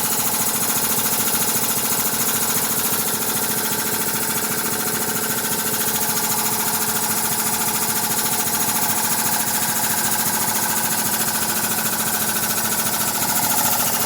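LaPlante LPW8060AT reciprocating air compressor pump running steadily, belt-driven by a 5 HP electric motor at about 875 RPM, with a rapid, even pumping beat.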